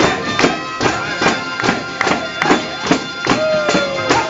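Traditional southern Italian folk music: a bagpipe playing held drone tones over a steady tambourine beat of about two and a half strikes a second.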